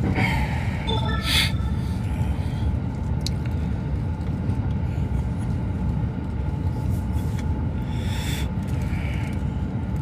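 Steady low rumble of a Narita Line rapid train running, heard from inside the passenger car, with two brief higher-pitched sounds, about a second in and again about eight seconds in.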